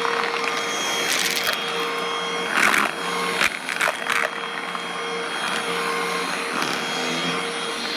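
Black & Decker vacuum cleaner running with a steady motor whine, with short crackling bursts about a second in, around two and a half seconds, three and a half seconds and four seconds as it sucks up crunchy debris.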